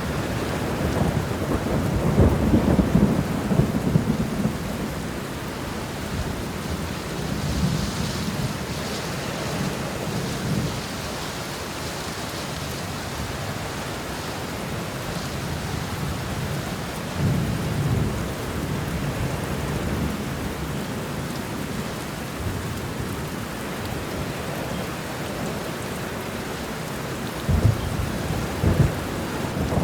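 Steady rain with rolling thunder: deep rumbles swell up about two seconds in, again around eight to ten seconds, briefly around seventeen seconds, and near the end, over the continuous hiss of the rain.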